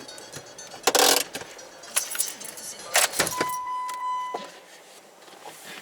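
A few sharp knocks and rattles, then a single electronic beep lasting about a second, heard over a faint background.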